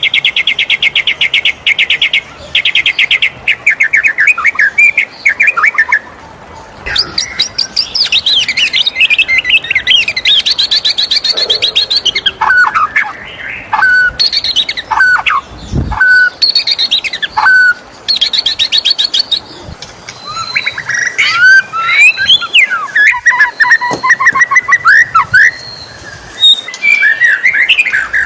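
White-rumped shama singing a varied song of rapid buzzy trills, clear whistled notes that drop sharply in pitch, and quick chattering phrases, with brief pauses between phrases.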